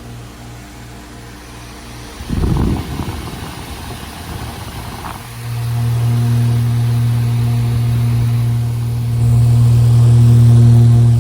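2011 Ducane heat pump outdoor unit running in cooling mode. A low hum pulses at first, with a short rush of noise about two seconds in. From about five seconds in the hum turns steady and loud, and it swells again near the end.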